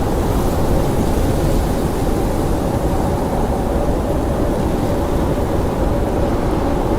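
Blizzard wind blowing hard and steadily, a deep howl with a faint held tone in it.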